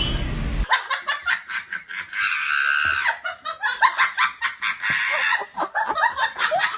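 Laughing in quick, choppy bursts, with music cutting off under a second in.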